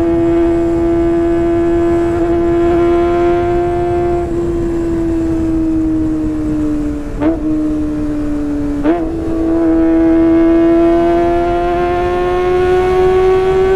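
Kawasaki ZX-25R 250 cc inline-four engine running through a Sportisi Motorsport SRX aftermarket exhaust. It holds a high, steady engine note that sags slightly, gives two short blips about a second and a half apart near the middle, then slowly climbs in pitch.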